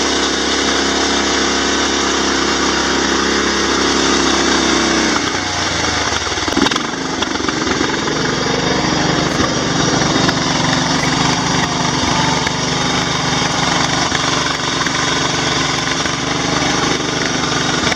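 John Deere 170 lawn tractor engine running steadily; about five seconds in its note changes and it settles into a rougher, steady run.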